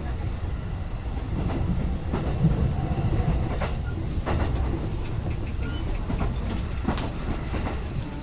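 A Saikyo Line commuter train running, heard from inside the carriage: a steady low rumble with scattered sharp clicks.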